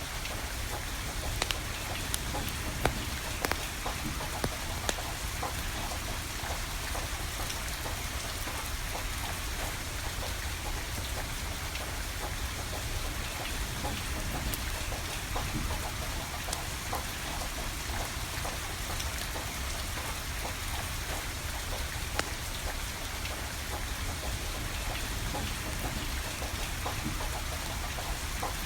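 Steady rain falling, with a wood fire crackling through it: scattered sharp clicks and a few louder pops, several in the first few seconds and one about twenty-two seconds in.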